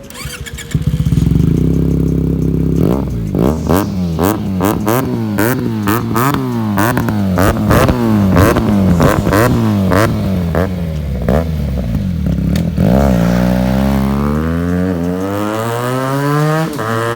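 Benelli TNT 300 parallel-twin engine through an IXIL full-system aftermarket exhaust. It comes in about a second in and runs steady briefly, then is blipped again and again, revving up and falling back about once a second with sharp crackles. Near the end it makes one long steady rise in revs.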